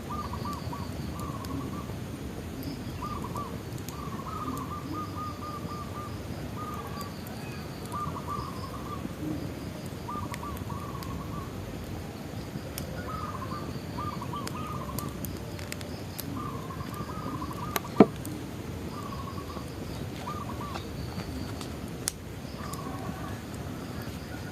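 Bonfire crackling, with scattered sharp pops, one much louder about three-quarters of the way through, over a steady low rush. Birds call throughout in short quick runs of repeated notes.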